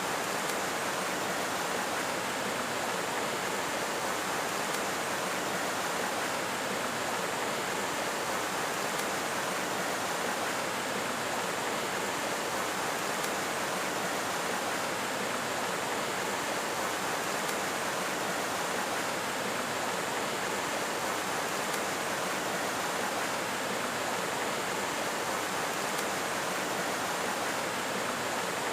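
Steady, unbroken rushing noise of the kind running water makes, even in level throughout.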